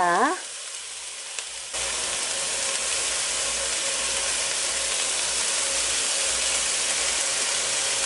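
Slices of bangus (milkfish) embutido sizzling steadily in a hot frying pan with no oil. The sizzle jumps up suddenly about two seconds in.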